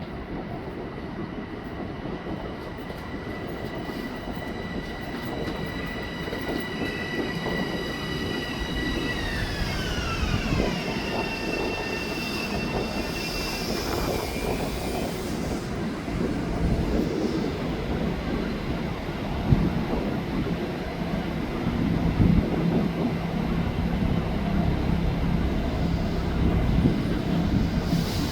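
Passing train: a steady rumble with a high-pitched wheel squeal in several tones that slides down in pitch about ten seconds in. The rumble grows louder toward the end.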